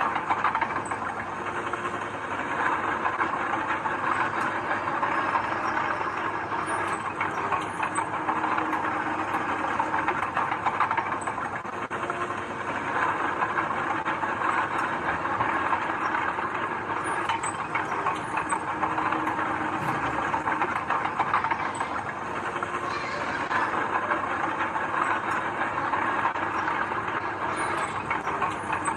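Bulldozer working: its diesel engine runs steadily under load over a continuous metallic clatter, with no break.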